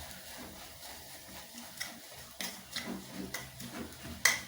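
Spoon scraping and knocking against a pot while stirring a thick mix of sawdust and melted candle wax, in irregular strokes that grow more frequent, with one louder knock near the end.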